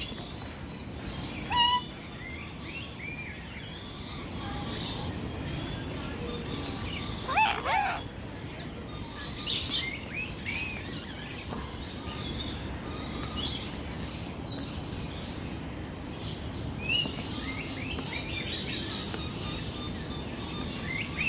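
Flock of lories calling: many short, shrill chirps and screeches scattered throughout, over steady background noise.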